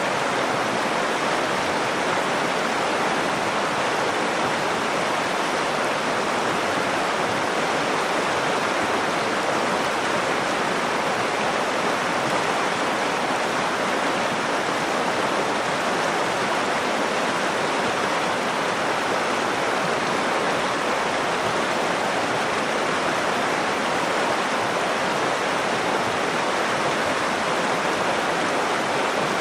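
The Nakdong River flowing, a steady, even rushing of water with no let-up.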